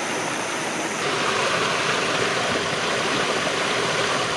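Steady rushing of running water, like a stream. It gets louder and brighter about a second in.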